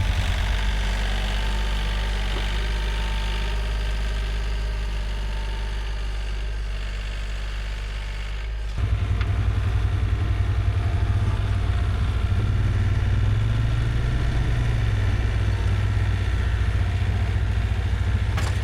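Tractor engine running steadily. About nine seconds in it gets louder and rougher, then briefly rises and falls in pitch as it is revved, as the tractor is put to work.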